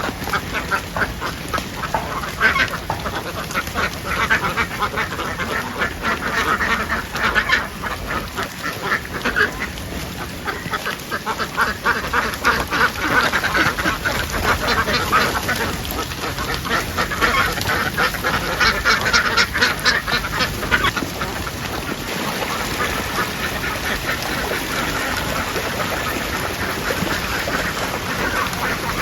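A large flock of domestic ducks quacking together in a dense, continuous chorus of overlapping calls.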